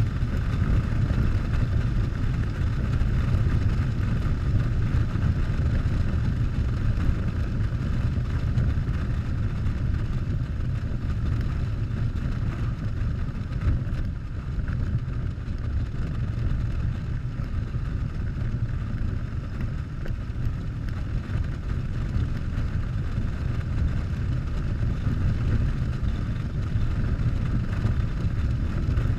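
Harley-Davidson Softail V-twin engine running steadily while the motorcycle cruises along.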